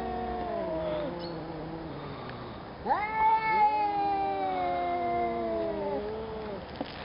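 Two cats in an aggressive face-off, yowling: one long, drawn-out wail sinks in pitch and fades, then a second starts with a sharp upward swoop about three seconds in and is held, slowly falling, almost to the end. This is the threatening caterwaul of a standoff, here over food by the owner's account.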